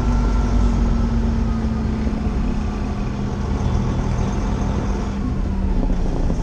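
Semi truck's diesel engine running at low speed, heard from inside the cab: a steady low rumble with a hum that sinks slightly in pitch.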